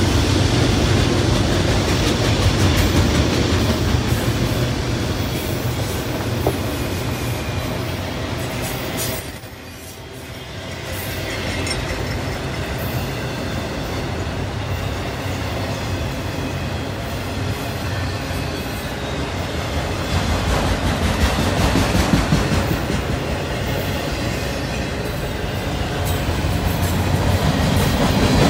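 Freight train of autorack cars rolling past at trackside: a steady rumble and clatter of steel wheels on the rails, briefly quieter about ten seconds in.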